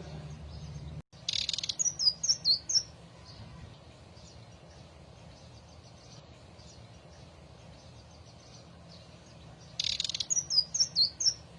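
Sikatan ninon (indigo flycatcher) singing two phrases, one about a second in and one near the end. Each phrase is a brief harsh rasp followed by about five quick, high, falling whistled notes. Fainter chirps sound between the phrases.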